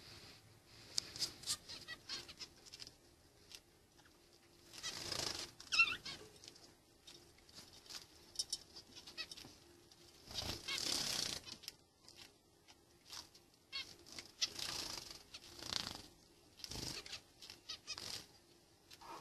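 Parrots and other birds: scattered short calls and clicks, with several louder bursts of wing flapping lasting about a second each.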